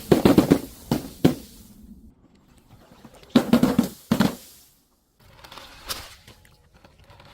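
Things being crushed and broken with sharp cracking crunches, in two quick clusters of several hits each, about three seconds apart, then one faint hit near the end.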